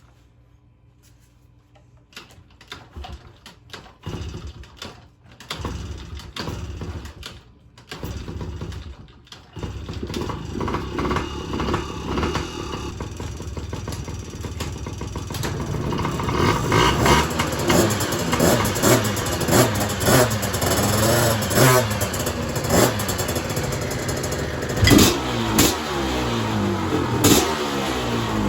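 A garage full of dirt bikes, a mix of two-stroke and four-stroke engines, being started at once. Engines sputter and catch one after another, then more join in until many are running and revving together, with sharp blips of throttle near the end.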